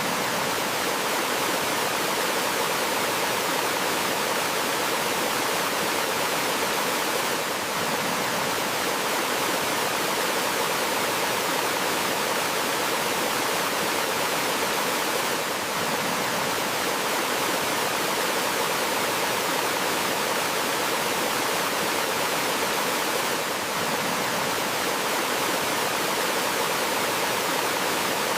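Steady rush of water from a gentle waterfall on a forest stream, an even hiss with no let-up, dipping slightly about every eight seconds.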